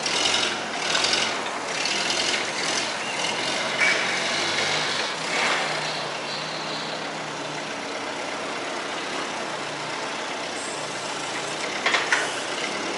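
A forklift's engine running while freight scrapes and rattles as it is worked off the back of a trailer, with the scraping louder in the first half.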